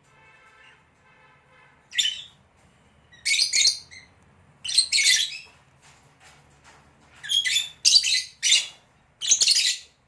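African lovebirds calling with shrill, high-pitched chirps and screeches in short repeated bursts.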